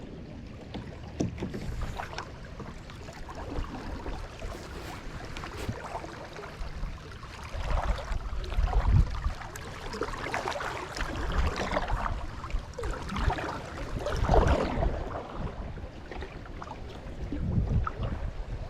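Water splashing and sloshing around a kayak on a creek, swelling in uneven surges as it is paddled, with low wind rumble on the microphone.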